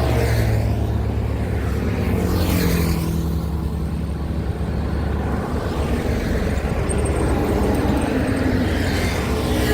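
Heavy diesel trucks passing on a highway: a steady low engine hum, with tyre and engine noise swelling and fading as vehicles go by, about three times.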